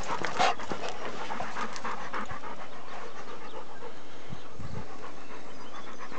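A pack of dogs panting heavily on the run, many quick breaths overlapping, with one brief louder burst about half a second in.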